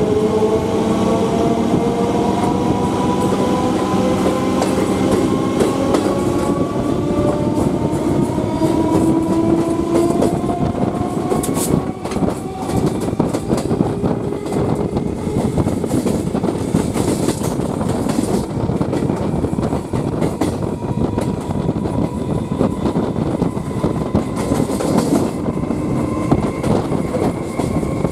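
Suburban electric local train accelerating away from a station, heard from an open doorway. Its motor whine rises in pitch over the first ten seconds or so, then fades under the wheels clattering over rail joints and points.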